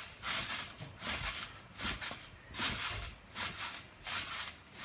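A child bouncing on a backyard trampoline: a rhythmic rasping rustle of the mat and springs with a low thump at each bounce, about three bounces every two seconds.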